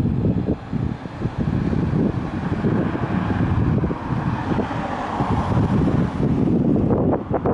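Strong gusty wind buffeting the microphone, a heavy uneven rumble. A vehicle's tyre and engine noise swells and fades in the middle as it passes.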